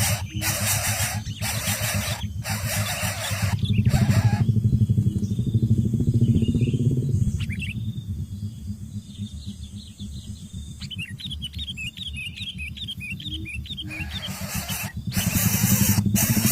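Nestling birds: loud hissing in pulses about half a second apart, then a quieter stretch with a quick run of high cheeps, then the pulsed hissing again near the end.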